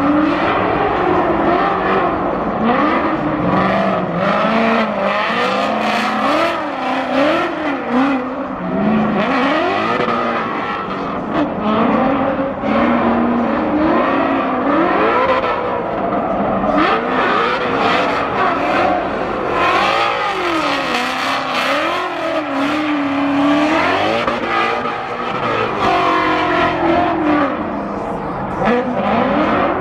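Drift car's engine revving up and down over and over, the pitch rising and falling every second or two, with tyre noise underneath.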